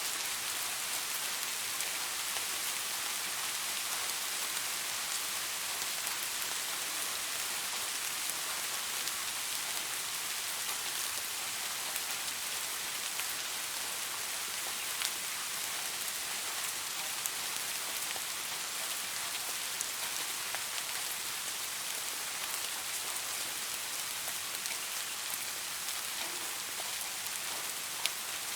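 Steady rain falling on leaves: an even hiss with scattered drop ticks, one sharper tick near the end.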